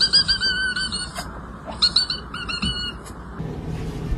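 A cat giving rapid, very high-pitched squeaky chirps, one run in the first second and another about two seconds in.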